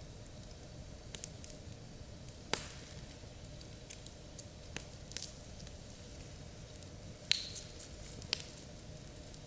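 Campfire crackling: scattered sharp pops and snaps over a low steady noise, the two loudest pops about two and a half seconds in and a little after seven seconds.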